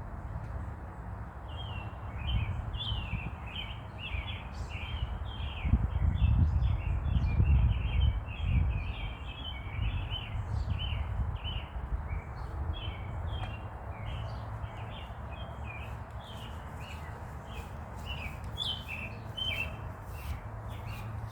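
Many small birds chirping, a steady run of short high calls, over a low rumble that swells louder for a few seconds in the middle.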